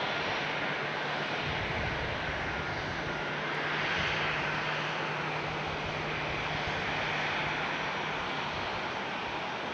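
Passenger airliner's engines, a steady rushing noise that swells about four seconds in and then slowly eases, with a low steady hum underneath.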